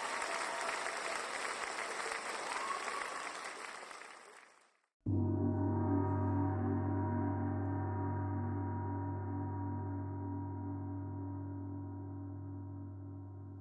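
Applause sound effect fading out, then a gong struck once about five seconds in, its deep tones wavering as they slowly die away.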